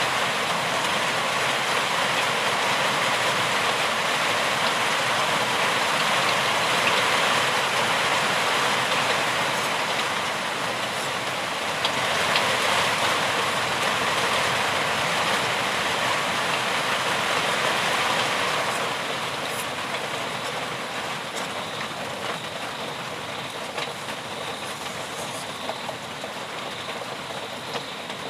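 Steady, dense rainfall, an even hiss of drops with no breaks, easing slightly about two-thirds of the way through.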